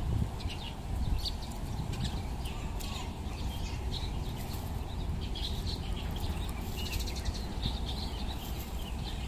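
Small birds chirping in many short, high calls over a steady low rumble.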